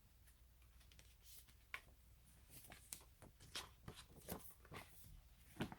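Faint paper rustling with scattered soft clicks and crinkles, as a folded paper poster is handled and opened out.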